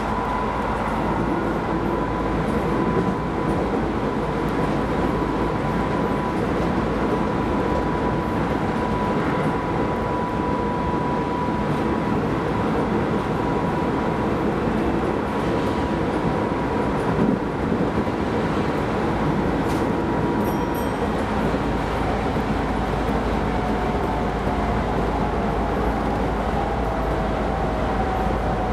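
Keisei Line electric train running on the rails: a steady rumble of wheels and track with a thin high whine held at one pitch, and near the end a whine that falls in pitch.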